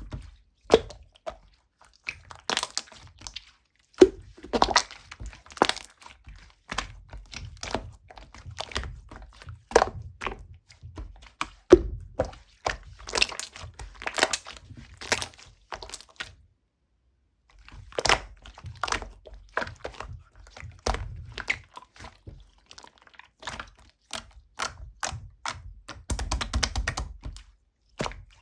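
Irregular clicks, taps and knocks of hard objects being handled, some with a low thud, with a pause of about two seconds midway.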